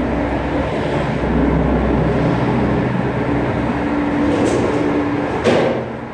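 A motor vehicle driving, with steady engine and road noise and a single short knock near the end.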